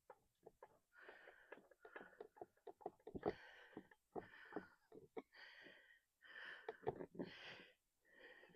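Faint breathing, with a breath out about once a second, and scattered small clicks and taps of hand work on parts.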